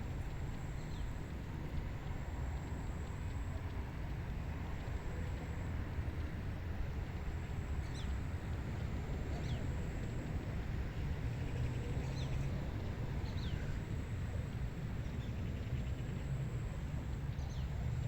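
Wind blowing steadily, heard mostly as a low rumble, with about six faint, short bird chirps scattered through it, each falling in pitch.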